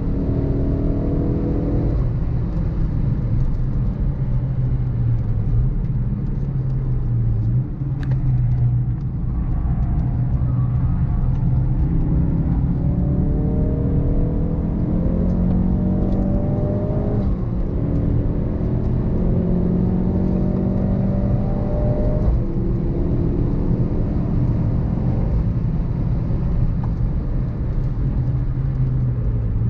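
Ford Focus RS Mk3's turbocharged 2.3-litre four-cylinder engine pulling hard on track. Its note repeatedly climbs in pitch and drops back at gear changes, with sharp drops about 2 and 8 seconds in and another about 22 seconds in.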